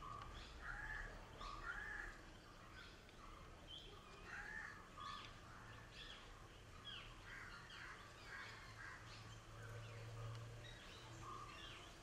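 Faint birds calling in the background: scattered short chirps and calls, with several quick descending whistles.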